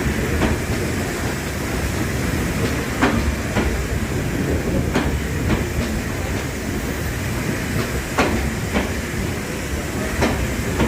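Train running on the rails with a steady rumble. Its wheels clack over rail joints in pairs about half a second apart, the pairs repeating every two to three seconds.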